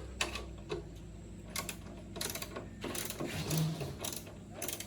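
Irregular metallic clicking and clinking of hand tools working on motorbike parts during disassembly, a string of sharp knocks at uneven intervals.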